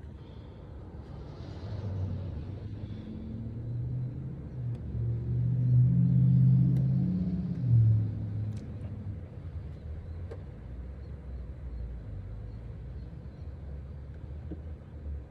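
Low rumble of car wash machinery heard from inside a car. It swells to its loudest about six to eight seconds in, then eases back to a steady lower level.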